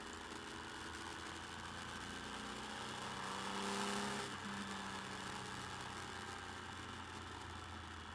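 Motorcycle engine running at road speed, picked up by a bike-mounted camera mic along with steady wind and road noise. About three seconds in it swells louder with a climbing pitch, then drops back abruptly a little after four seconds.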